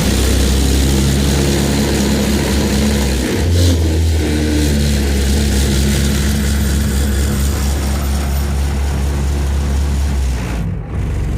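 Harbor Freight Predator 212 single-cylinder engine pulling a small pickup steadily at high revs in fourth gear, with a brief rise about three and a half seconds in. Near the end the engine note drops for a moment during a gear change up to fifth, then picks up again.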